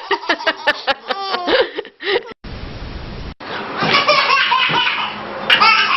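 A person laughing in quick, rapid bursts, broken off about two seconds in by a sudden second of steady hiss, then a mix of noisy sounds with a brief vocal burst near the end.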